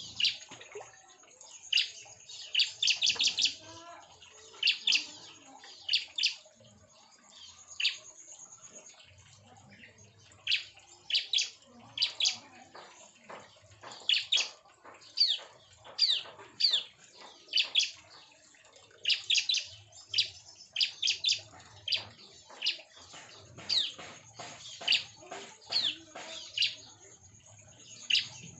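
Bar-winged prinias (ciblek) chirping in an aviary colony: short, sharp, falling notes, often in quick runs of several, repeating every second or so.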